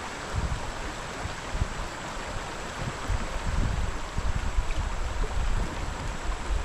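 Creek water running steadily, with uneven gusts of wind buffeting the microphone.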